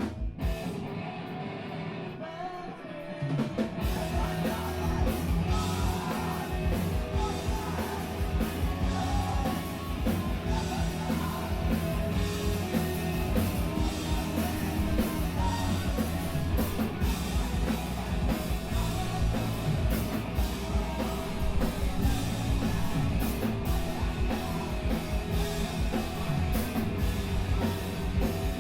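Live screamo band playing: a guitar rings out quietly for about the first three seconds, then the drums and full band come in loud and keep going.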